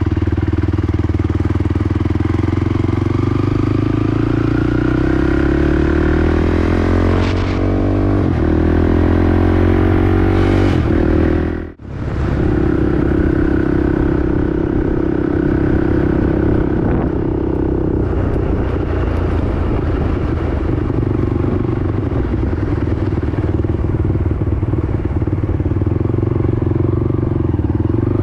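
Honda TRX450R quad's single-cylinder four-stroke engine running under way, its pitch climbing steadily for about ten seconds as it accelerates. About twelve seconds in the sound drops out for an instant, then the engine runs on at a steady pitch.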